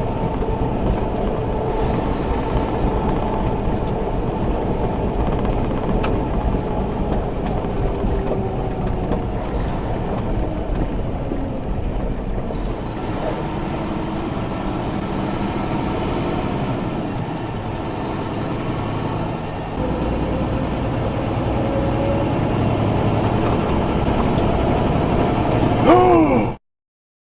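A moving truck's engine and road noise running steadily. Just before the sound cuts off there is a short, loud sound that bends in pitch.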